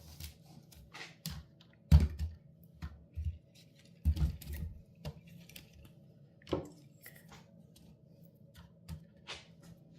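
Scattered knocks and clicks as a hand-woven plastic wicker basket and the things in it are handled, a few separate bumps several seconds apart.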